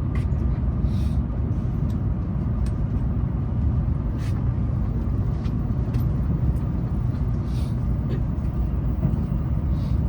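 Tokaido Shinkansen Nozomi train running, heard from inside the passenger car: a steady low rumble with a few faint brief hisses every few seconds.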